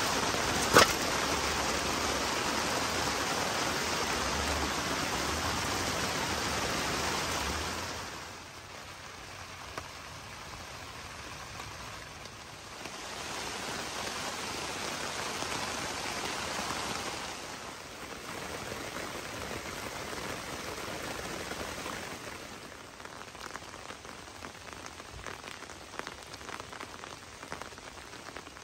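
Steady rain falling, louder for the first eight seconds and softer after, with one sharp click about a second in.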